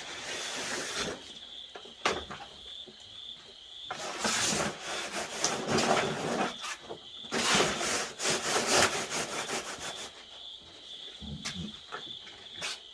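Three stretches of rough scraping or rubbing with scattered clicks, the loudest about midway through, over a steady pulsing high trill of insects.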